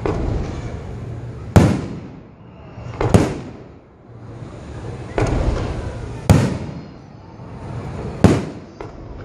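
Aerial firework shells bursting overhead: four sharp bangs a second or two apart, each followed by a rolling echo, over a continuous rumble and crackle from the display, with softer thuds as more shells go up.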